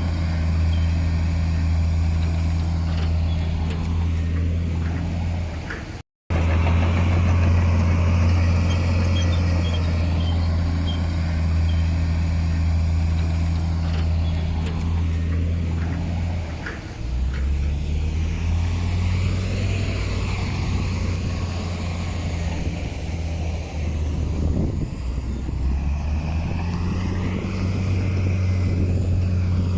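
Heavy diesel engine of earthmoving equipment running steadily. It cuts out completely for a moment about six seconds in. Past the middle the engine speed drops, and it picks up again near the end.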